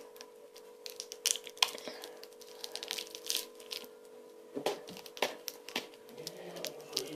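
Plastic sweet wrapper crinkling and crackling in the hands, a string of short irregular crackles and clicks over a faint steady hum.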